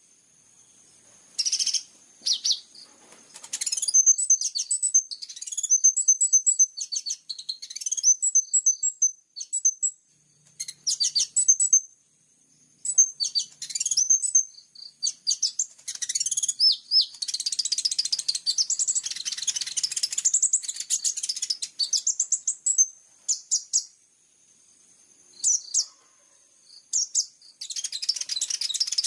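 Small songbird singing a rapid, high-pitched song of chirps and twittering trills in short phrases with brief pauses, running into long dense trills after about halfway and again near the end. This is a bird-song training recording of fill-in songs.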